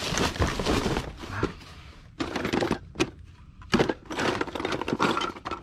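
Junk being rummaged by hand: assorted objects clattering, knocking and scraping against each other, with two sharp knocks about three and nearly four seconds in.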